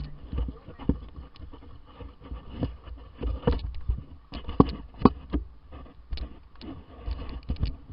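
An irregular run of sharp clicks and knocks over a low rumble, loudest twice about five seconds in.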